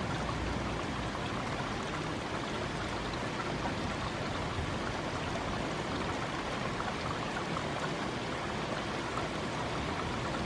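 Steady heavy rain during a thunderstorm: an even, dense hiss of falling drops.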